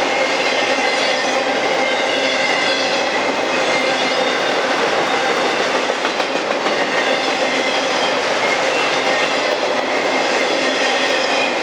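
Cars of a Norfolk Southern intermodal freight train rolling past: a steady noise of steel wheels on rail, with faint high ringing tones over it.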